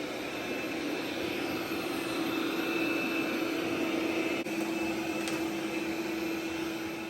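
AIRROBO T10+ robot vacuum running, vacuuming and mopping at the same time: a steady whir of its suction fan with a low hum and a faint high whine, and one small click about four and a half seconds in.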